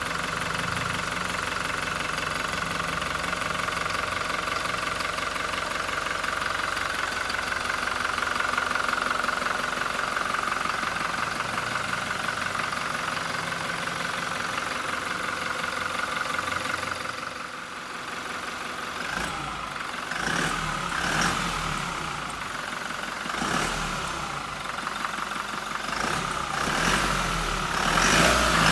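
Toyota Hilux's 2GD-FTV 2.4-litre four-cylinder VNT turbo diesel idling steadily with diesel clatter, then revved in several short throttle blips through the last ten seconds or so.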